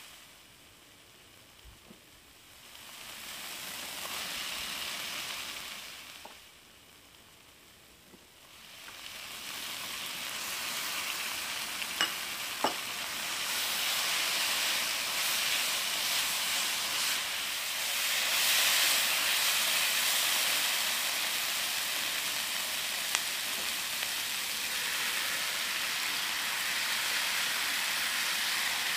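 A tomato, onion and bean sauté sizzling in a stainless-steel wok while a spatula stirs it, with two sharp knocks of the spatula on the pan about twelve seconds in. The sizzle is mostly absent for the first few seconds and again around seven seconds in, then holds steady and grows louder in the second half.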